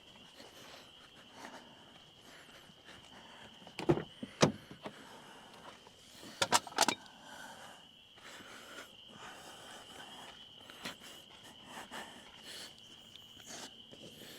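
Knocks and clicks of camping gear being handled and set down around a car, with the sharpest ones about four seconds in and a quick cluster about six and a half seconds in. Over them runs a faint steady high-pitched tone.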